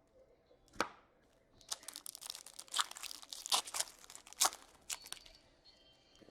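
Wrapper of an Upper Deck SP Authentic hockey card pack being torn open and crinkled. One sharp crack comes about a second in, then a few seconds of rapid tearing and crinkling.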